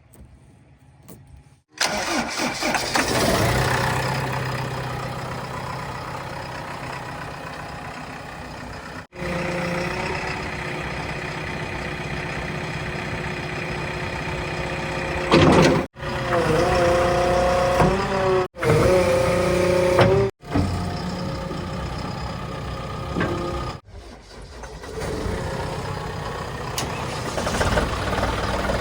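Heavy diesel vehicle engines running, changing abruptly at several cuts between short clips. A few seconds past the middle, a pitched sound stepping between notes sits over the engine.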